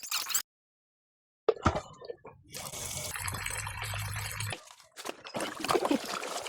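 Water running and splashing, starting after about a second of dead silence, with a steady low hum for about a second in the middle.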